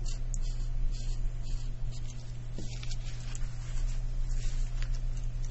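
Marker tip rubbing over fabric in short repeated strokes as colour is laid in, over a steady low hum.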